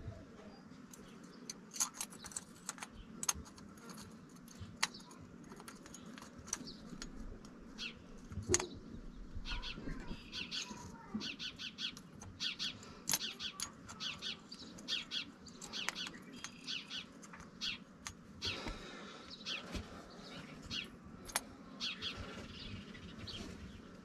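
Small birds chirping in quick repeated notes, busiest in the middle, with scattered light metallic clicks as screws are started by hand in a tin cover over a freshly fitted hydraulic seal.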